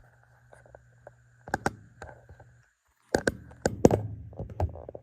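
Several sharp clicks and knocks, one pair about a second and a half in and a cluster from about three to four and a half seconds in, over a steady low hum with a faint high whine that cuts out about two and a half seconds in.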